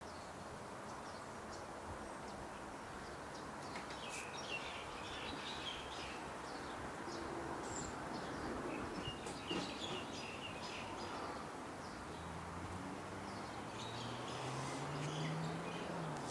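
Birds chirping in short scattered calls over steady outdoor background noise, with a low drone coming in and rising slightly near the end.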